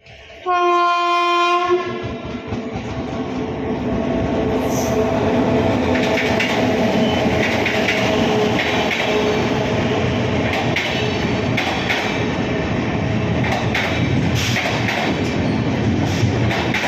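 A locomotive horn blasts once for about a second, then the departing cargo train runs on with a steady rumble and its wheels clicking over the rail joints, the clicks coming more often toward the end.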